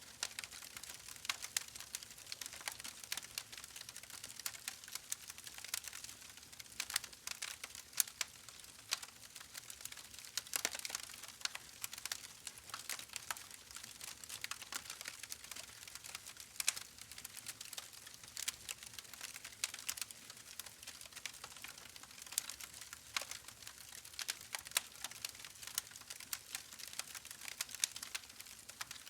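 Soft, irregular crackling: a dense scatter of small clicks and pops with no rhythm, running on as a steady background bed.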